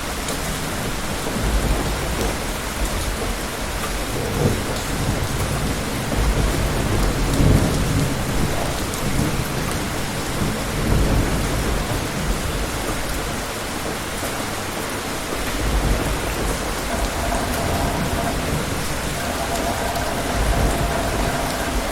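Steady rain falling, with several rolls of distant thunder rumbling low beneath it, the strongest about seven seconds in.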